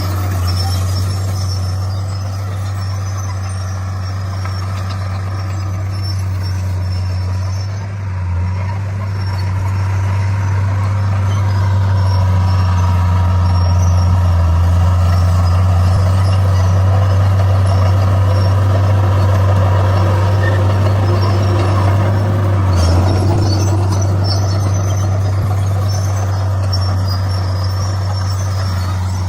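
Diesel engine of a Komatsu D41 bulldozer running steadily under load while pushing stone, a constant low drone. It grows somewhat louder about twelve seconds in and eases back a little after about twenty-two seconds.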